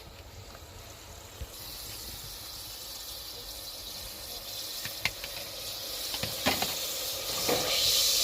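A steady hiss that comes in about a second and a half in and grows louder, with a few sharp clicks near the middle and end.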